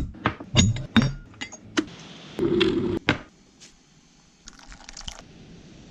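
Cutlery and crockery clinking at a dinner table: a quick run of sharp clinks and knocks over the first three seconds.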